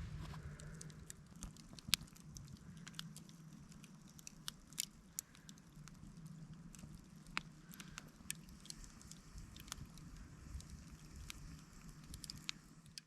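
Campfire crackling: irregular sharp pops and snaps of burning wood over a low steady rumble.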